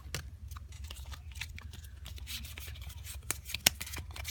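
Pokémon trading cards and booster-pack foil being handled: a scattered series of light clicks, snaps and short rustles as the cards are pulled out and flicked through.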